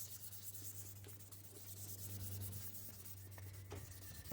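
Sandpaper being rubbed by hand over a plastic headlight lens, in quick, light, even strokes.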